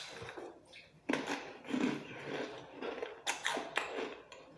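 Someone biting and chewing crunchy rolled tortilla chips (blue Takis), a handful of separate crunches.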